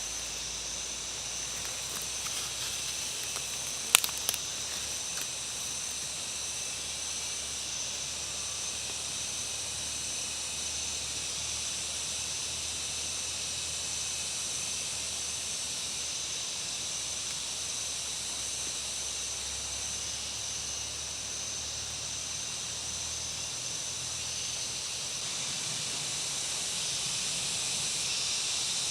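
Steady high-pitched insect chorus, a continuous shrill hiss with a held high tone. A sharp click about four seconds in, with a few faint ticks around it.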